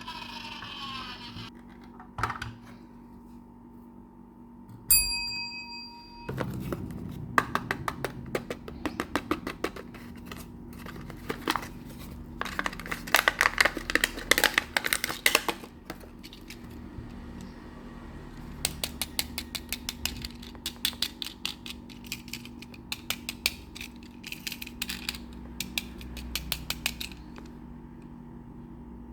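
Small toy trucks being handled: a sharp click, then a single ringing ping, then long runs of rapid small clicks and rattles, many a second, in bursts that stop and start.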